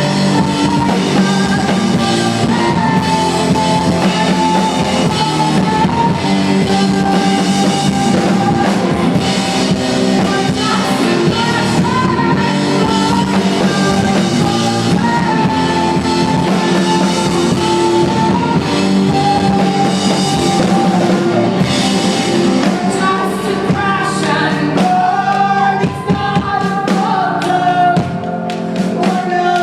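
Indie rock band playing live: a singer's voice over drum kit and guitars, loud and continuous.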